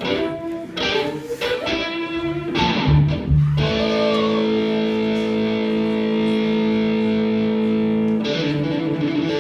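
Electric guitar played live through an amplifier: a few short strummed chords, then one chord held ringing for about four and a half seconds before the strumming resumes near the end.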